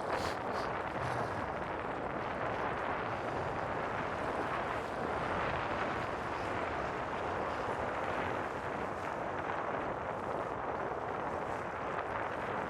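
Steady wind noise buffeting the microphone, an even rushing rumble with no distinct events.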